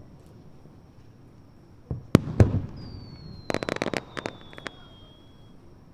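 Aerial fireworks bursting: three sharp booms about two seconds in, then a quick run of crackling pops, with a thin high whistle slowly falling in pitch.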